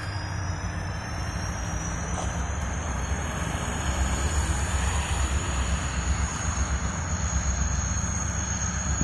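Freight train diesel locomotives running with a steady low rumble, under a thin high-pitched whine that drifts slowly upward. A sharp knock comes at the very end.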